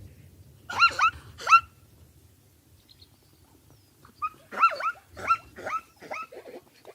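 A dog yelping in short, high calls that drop in pitch: three quick yelps about a second in, then a run of six or so from about four seconds in that grows fainter toward the end.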